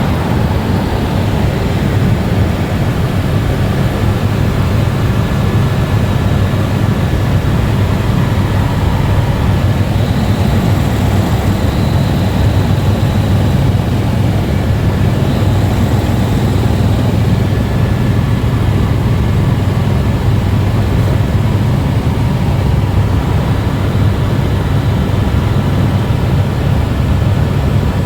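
Steady helicopter engine and rotor noise heard from inside the cabin: a constant low, heavy drone with a faint steady high whine over it.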